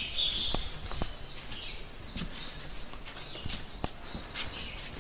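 Birds chirping with short, repeated high calls, and a few sharp taps scattered among them.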